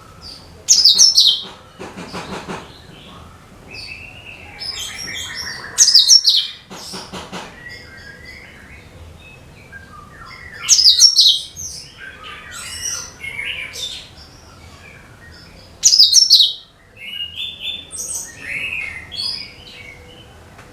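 Cucak kinoi singing: a loud burst of high, falling whistled notes about every five seconds, with softer chattering phrases between them.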